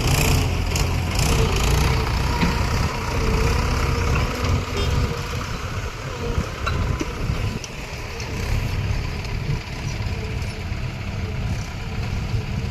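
Heavy diesel engine running, louder for the first five seconds or so, then quieter.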